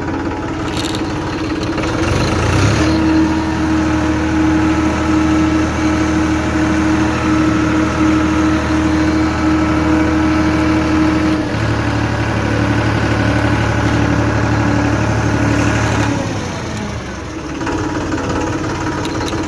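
Tractor engine running steadily, its speed shifting a few times: about 3 seconds in, near halfway, and again about 16 seconds in.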